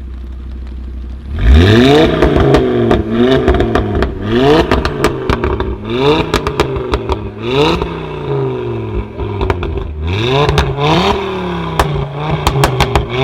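A tuned car's engine idling, then revved hard about a second and a half in and blipped again and again, the revs climbing and falling every second or two. The exhaust crackles and pops between the blips, most of all near the end.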